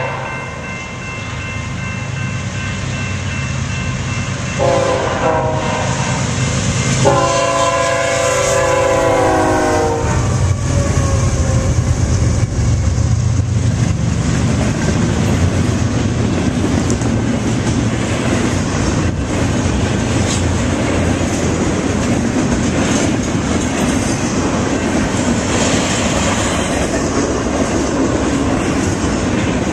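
A BNSF freight train's diesel locomotive horn sounds several chords: one ending just at the start, a short blast about 5 seconds in, and a longer one from about 7 to 10 seconds, over the engines' drone. After that the double-stack container cars roll past with a steady rumble and wheel clatter on the rails.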